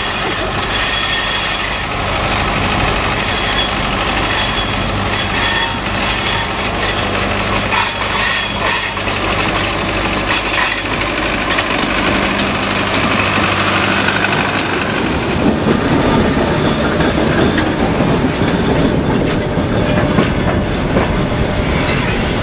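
Diesel locomotive arriving along the track: its engine runs with a steady hum as it approaches and passes. Then the passenger carriages roll by, their wheels rumbling and squealing on the rails.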